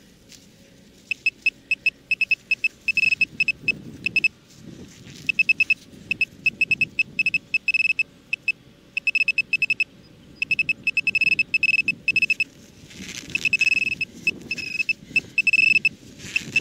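Metal detector beeping over a coin-range target: quick runs of short beeps at one high pitch in bursts, almost continuous near the end as the target is closed in on, with faint rustling from digging underneath.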